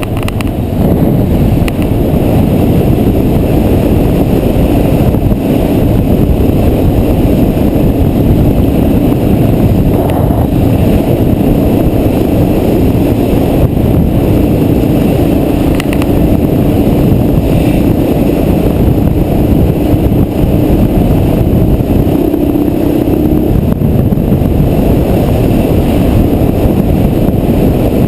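400 cc trail motorcycle engine running steadily under load on a dirt trail, with heavy low rumble and rush; its pitch lifts a little about 22 seconds in, then drops back.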